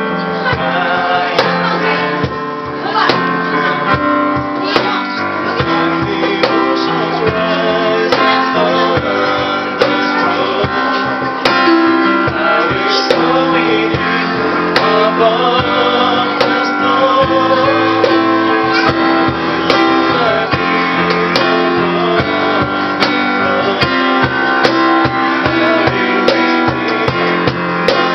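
Live acoustic band music: acoustic guitar playing with sharp cajón hits keeping the beat and a male voice singing over it.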